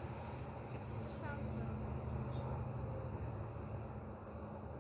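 Steady insect chorus, a continuous high-pitched trill, over a low background rumble.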